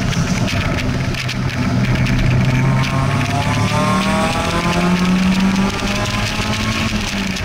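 Open-top car's engine on track, first running steadily while the car slows for a corner, then revving up in pitch as it accelerates out, with wind buffeting the microphone.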